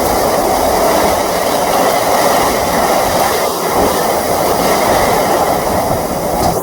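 Heavy rain pouring down in a loud, steady rush.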